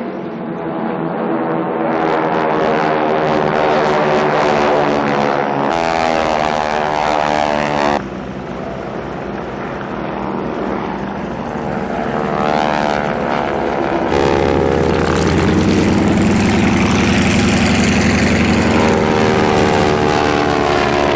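Propeller airplane's piston engine running as the plane flies past, its pitch falling as it goes by. The sound changes abruptly about 8 seconds in and again about 14 seconds in.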